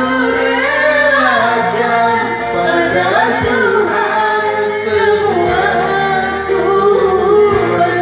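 A woman singing a melody over a karaoke backing track.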